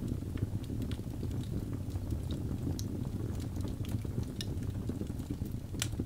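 Wood fire in a fireplace crackling: a steady low rumble of flame with scattered sharp pops, the strongest one near the end.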